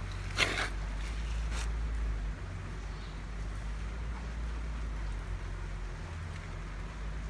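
Honda Benly Pro 50's small single-cylinder eSP engine idling steadily, with a sharp clack about half a second in and a lighter click about a second later; the engine note eases down a little after about two seconds. It runs evenly, with no abnormal noise.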